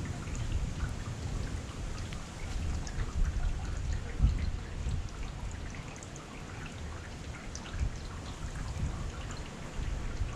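Heavy rain falling steadily, with many individual drops ticking close by and a low, uneven rumble underneath.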